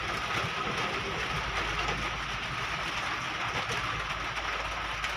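Steady mechanical noise with a faint constant high whine, even throughout with no distinct knocks or changes.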